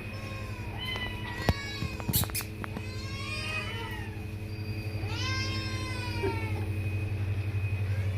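A domestic cat meowing several times, the longest and loudest call about five seconds in. A few sharp clicks or knocks come around two seconds in, over a steady low hum.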